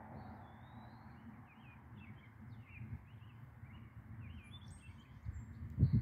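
Several songbirds chirping and calling, with one short whistled note about a second in, over a steady outdoor background noise. A few low thumps come near the end.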